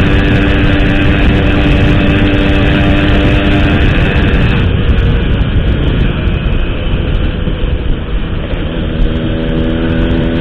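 Motorcycle with an Altech C17 aftermarket exhaust running while riding, a steady engine note over a dense low rumble. About halfway through the note fades as the throttle eases, and near the end a steady note comes back.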